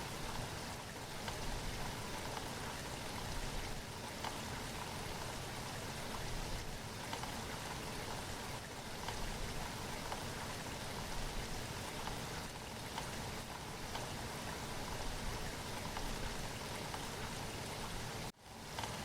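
Steady rain falling, an even hiss of drops with no single sound standing out. It cuts out for a moment near the end, then resumes.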